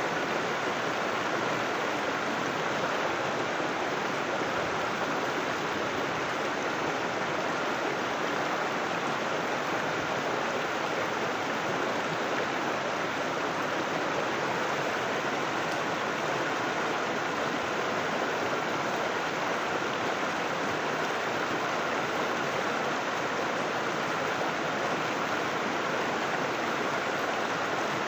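River water flowing and splashing over rocks, a steady, even rush with no breaks.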